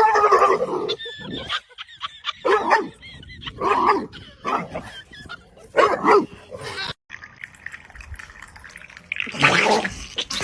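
A dog barking and yipping in short, separate calls, about seven in all, with a brief gap near the middle.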